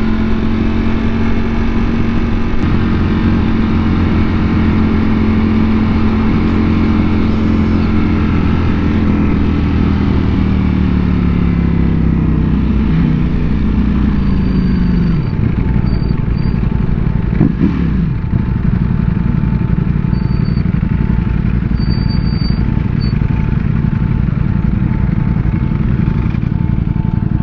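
Motorcycle engine running at steady revs, its pitch falling as it slows about halfway through, then giving way to a steady low rushing noise.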